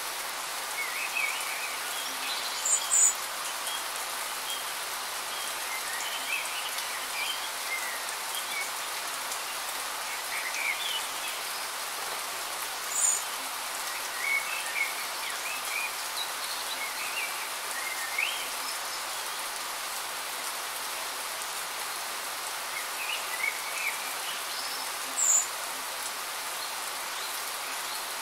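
Steady rain falling, with birds chirping on and off over it. Three short, high notes stand out above the rain at roughly ten-second intervals.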